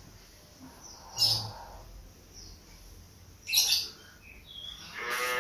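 Birds chirping and calling, with two louder short calls about a second and three and a half seconds in. Near the end a cow begins a long moo.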